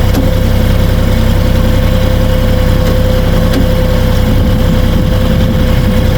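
Kioti 3520HST compact tractor's three-cylinder diesel engine running steadily, with a steady whine over the engine note.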